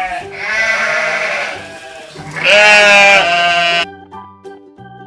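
Sheep bleating: two long, wavering bleats, the second and louder one about two and a half seconds in, over light keyboard music that carries on alone near the end.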